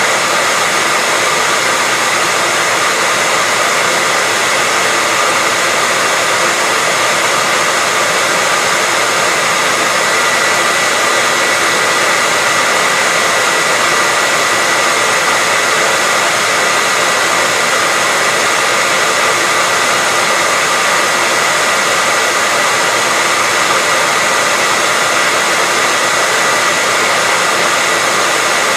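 Hair dryer running continuously, a steady whooshing hiss of fan and airflow with a faint high whine, unchanging throughout, used as white noise for soothing a baby to sleep.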